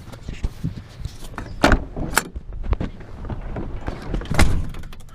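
A series of sharp clunks and knocks over a low rumble, the loudest about two seconds in and again past four seconds.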